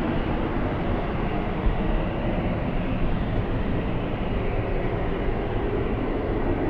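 Business jet engines making a steady, unbroken jet roar, with no change in pitch.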